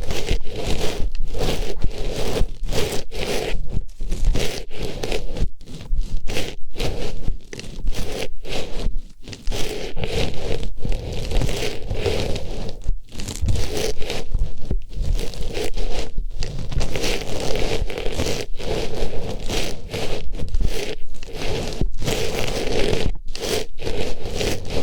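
Artificial flower pushed into and worked around an ear, giving close, continuous rustling and scraping with brief breaks every second or so.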